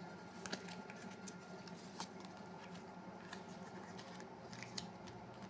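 Tarot cards being handled on a table: scattered light clicks and snaps of card stock, irregularly spaced.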